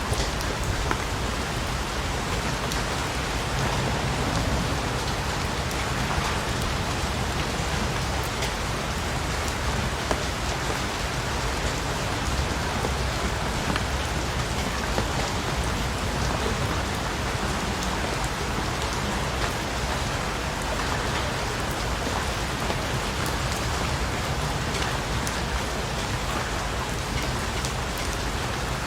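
Steady rain falling and pattering on a surface, an even hiss with individual drops ticking through it.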